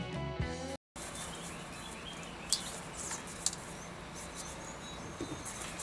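A short tail of background music ends abruptly about a second in. Then comes steady outdoor background sound with birds chirping now and then.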